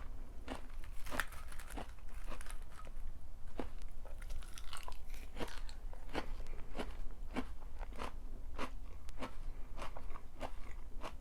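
A person chewing crunchy food close to the microphone: a steady run of crisp crunches, about two a second.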